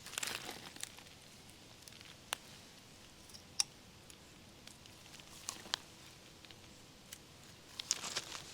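Herbs being picked in a garden: short bursts of leaves and stems rustling at the start and near the end, with a few single sharp snaps or clicks in between.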